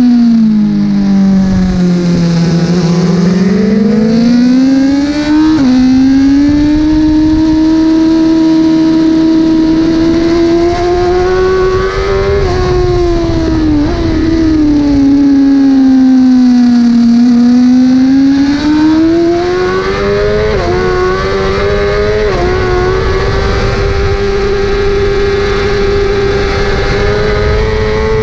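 1000 cc superbike engine at race pace: the revs sink as the bike slows for corners and climb again under acceleration, stepping down sharply at each upshift, twice in quick succession about two thirds of the way through, then holding high near the end.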